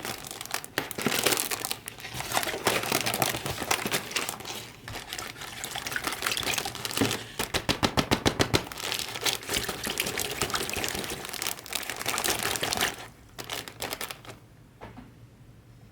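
Scratchy scrubbing and scraping on the corroded brass tea box in quick, uneven strokes, with a fast even run of back-and-forth strokes about halfway through, tailing off near the end.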